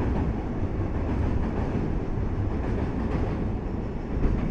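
Container freight train's wagons rolling past, a steady noise of steel wheels on rail.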